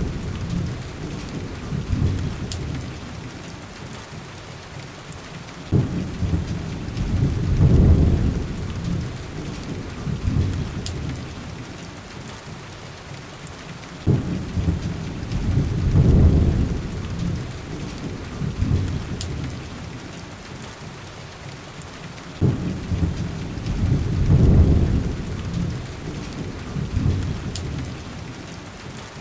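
Steady heavy rain with deep rolling thunder, each rumble starting suddenly and swelling, three times about eight seconds apart. A few faint sharp pops of a crackling wood fire sit over the rain.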